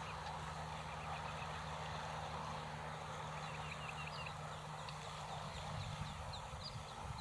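Outdoor ambience of a steady low hum with a faint rush, over which small birds give short high peeps, singly and in one quick run of about half a dozen about three seconds in.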